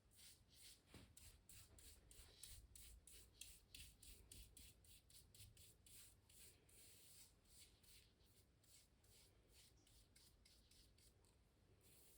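Faint, rapid back-and-forth strokes of a drawing or painting tool rubbing on canvas, about three to four strokes a second. They grow weaker after about seven seconds and stop just before the end.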